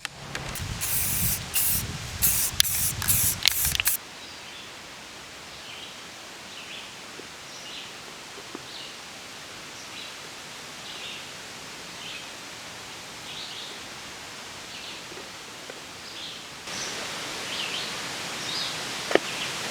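A bird chirps briefly about once a second over a steady outdoor hiss. It follows a loud stretch of rumble and clattering that cuts off about four seconds in.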